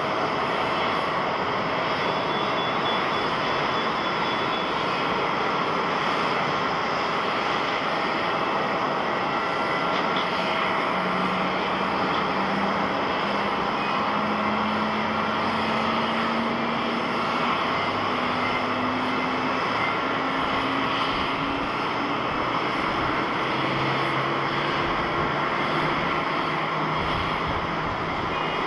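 Jet airliner engines running with a steady rush of noise. A whining engine tone rises slowly in pitch through the middle of the stretch.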